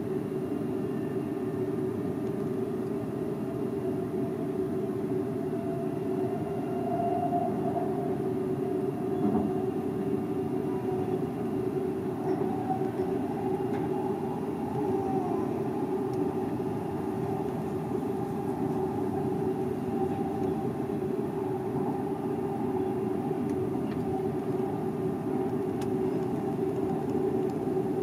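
Seibu 001 series Laview limited express train running at speed, heard from the cab: a steady rolling and running noise with a faint whine that drifts slightly up and down in pitch.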